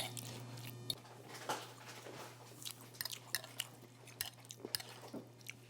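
A person eating: faint chewing with scattered small clicks and taps, under a steady low hum that stops about a second in.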